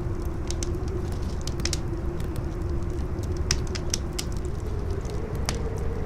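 Campfire crackling with irregular sharp pops, over a steady low rumble and a howling wind whistle that rises slightly in pitch near the end.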